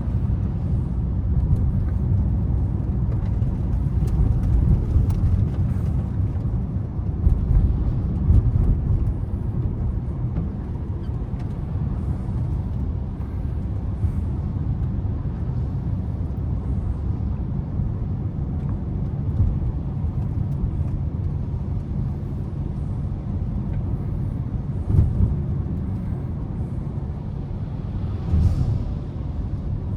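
Car driving through city streets: a steady low rumble of engine and road noise, with a few short louder moments and a brief rush near the end.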